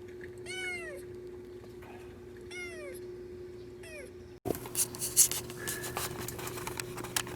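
A kitten mewing three times, short high-pitched mews that fall in pitch. About two-thirds of the way through the sound cuts abruptly, and scattered clicks and rustling handling noises follow.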